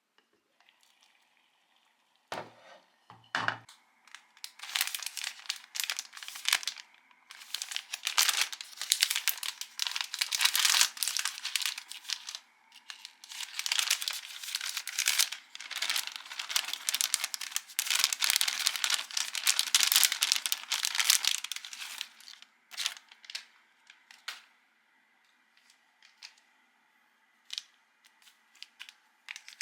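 Instant-food packaging being handled: two dull thumps, then about seventeen seconds of dense crinkling and tearing, thinning to a few scattered crinkles and clicks near the end.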